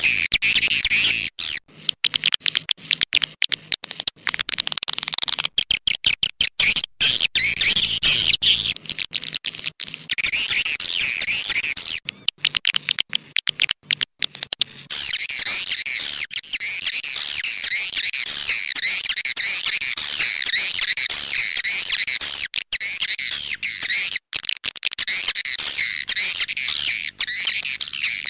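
Recorded swiftlet calls played as a lure track to draw swiftlets into a bird house: a dense mass of rapid, high, wavering twitters. Short gaps break up the calling in the first half, and from about halfway it runs on almost unbroken.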